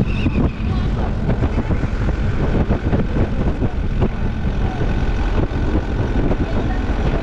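A vehicle driving along a road, with a steady low engine and road rumble.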